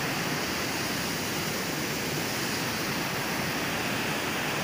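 Waterfall of falling water making a steady, even rush.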